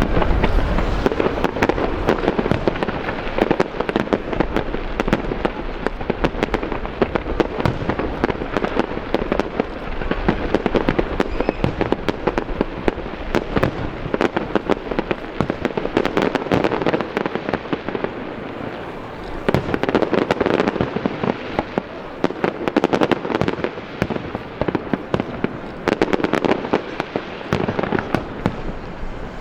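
Fireworks display: a dense, continuous barrage of rapid cracks and pops, swelling and easing in waves.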